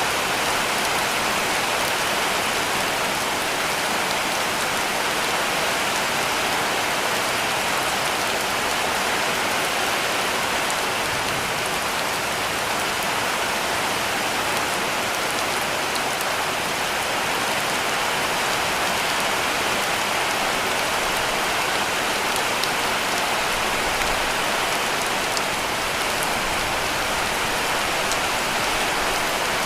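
Heavy rain falling steadily on a cabin roof: an even, unbroken hiss of rain with fine drop patter, holding the same level throughout.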